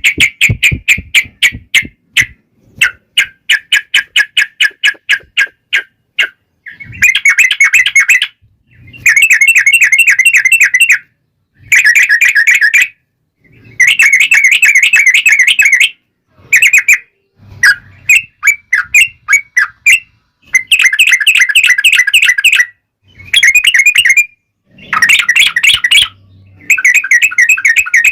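Trucukan (yellow-vented bulbul) singing loud, rapid chattering strings of notes (the long "ropel" phrases), each phrase lasting one to two seconds with short pauses between them.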